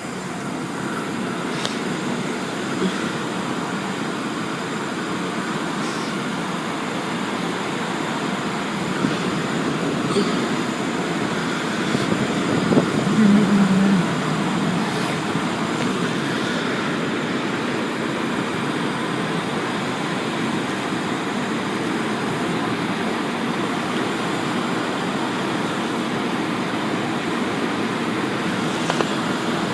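Automatic car wash equipment running: a steady rushing noise, with a brief louder hum midway.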